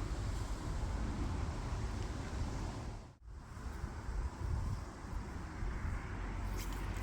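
Wind buffeting the microphone: an uneven low rumble with hiss, broken by a brief dropout about three seconds in.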